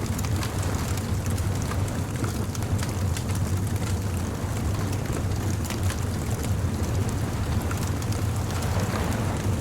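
Beach bonfire ambience: wood fire crackling with scattered sharp pops over a steady low rumble and hiss of surf and wind.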